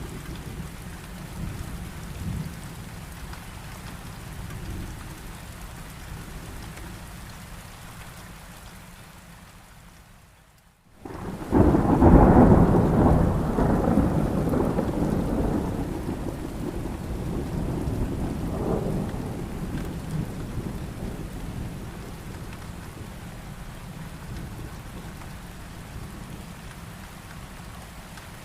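Steady heavy rain with thunder. The sound fades out to a brief gap about a third of the way in, then a loud thunderclap breaks in and rumbles away over several seconds, with a smaller roll a few seconds later, before the rain goes on.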